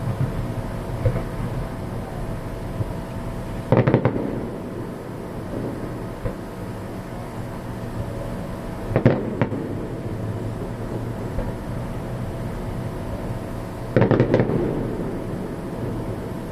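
Aerial firework shells bursting with loud booming reports and a rumbling echo after each: three big bursts about four, nine and fourteen seconds in, the middle one a quick double crack. A steady background noise runs under them.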